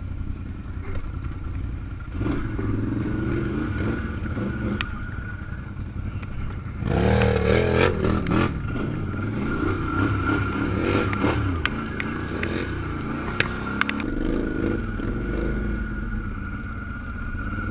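Off-road truck engine running while backing up, rising in a louder rev about seven seconds in, with a steady whine over the engine and scattered clicks and clatter.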